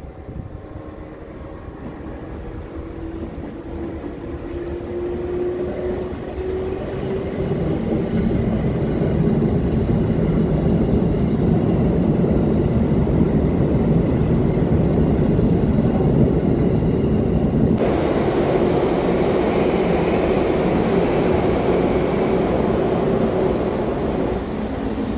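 A train approaching and running past, growing louder over about eight seconds and then staying loud and steady, with a hum that rises in pitch as it comes in. A brighter rushing sound joins about two-thirds of the way through.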